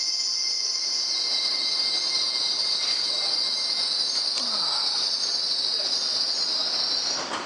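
Wagons of a Class 66-hauled freight train running through the station without stopping, with a steady high-pitched hiss from the wheels on the rails. The sound cuts off about seven seconds in as the last wagon clears.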